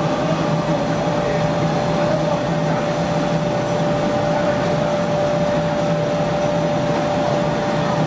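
Chili powder roller mill running steadily: a constant machine noise with a steady mid-pitched whine over it.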